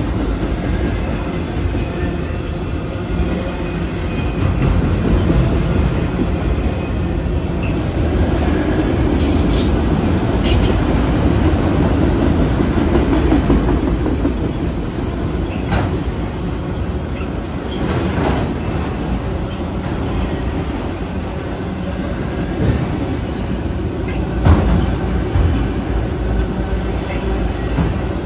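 Freight train of autorack cars rolling past: a steady rumble of steel wheels on the rails, broken by a few sharp clanks, the loudest near the end.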